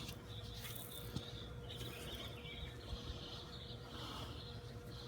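Faint outdoor ambience: distant birds chirping in high, wavering patches, over a low rumble and a faint steady hum.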